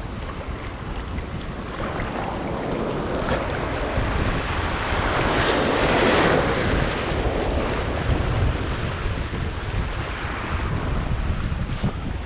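Sea waves surging and washing, one swell building to a peak about halfway through and then easing, with wind buffeting the microphone in a low rumble throughout.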